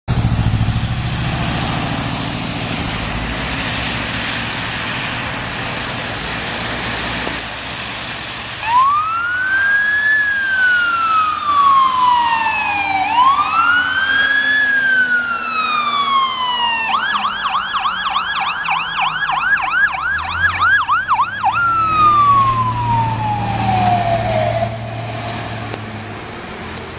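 A fire truck's engine and road noise, then its electronic siren: two slow wails that rise and slowly fall, a switch to a fast yelp of about three sweeps a second, and a last falling wail that winds down.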